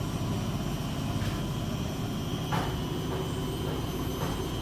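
Beko WS832425S washing machine spinning fast, a steady low rumble with a steady high whine over it and a few faint knocks from the drum.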